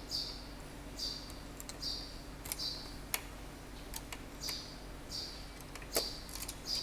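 A small bird chirping: short high chirps falling in pitch, repeated about once a second, with scattered sharp clicks of handling and a faint steady hum beneath.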